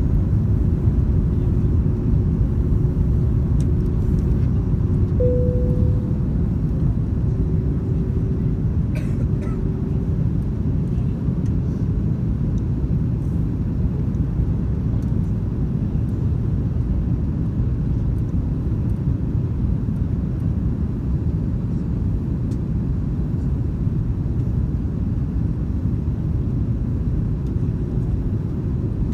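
Airbus A330-202 airliner in flight: a steady low rumble of engine and airflow noise with a faint hum, and a brief higher tone about five seconds in.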